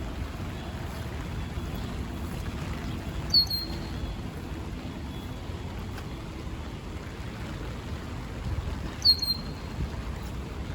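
A songbird gives two identical short, sharp calls about six seconds apart, each dropping quickly in pitch and ending on a brief held note. Under them runs a steady low rumble of rain and wind.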